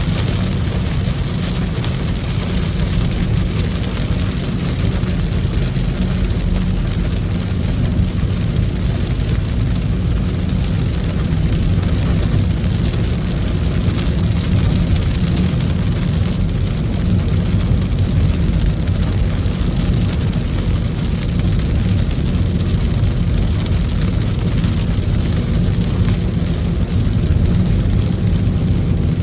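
Steady low rumble of a car driving on the road, with an even hiss of rain over it.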